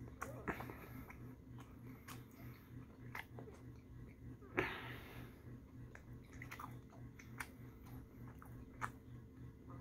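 Close-mouthed chewing of food, with scattered wet smacks and clicks and one louder smack about halfway through, over a low steady hum.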